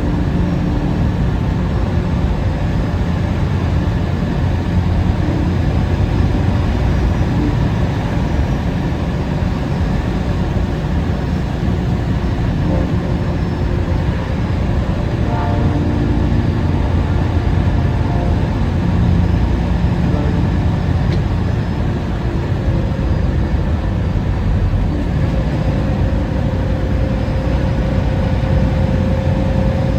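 Steady engine and road rumble heard inside a truck's cab while driving. A faint steady whine comes in over the last few seconds.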